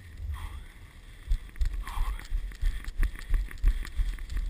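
Dog sled running on a snow trail: a steady low rumble of wind and runners, and from about a second and a half in, a quick run of crunching clicks from the sled on the snow.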